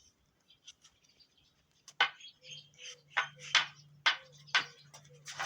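Partridges giving short, sharp clucking notes, roughly two a second at uneven spacing, starting about two seconds in, over a low steady hum.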